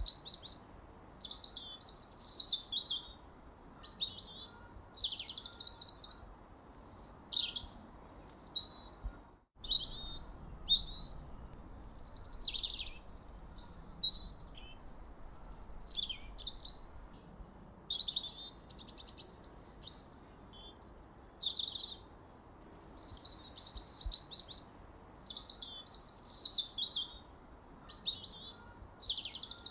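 Birds singing: a steady chorus of short, varied high chirps, trills and falling whistled phrases one after another over a faint background hiss. The sound cuts out for an instant a little over nine seconds in.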